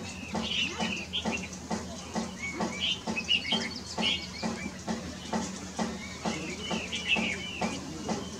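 Birds chirping in short clusters of quick rising-and-falling notes. Under them runs a steady household machine-like pulsing of about four beats a second, with a low hum.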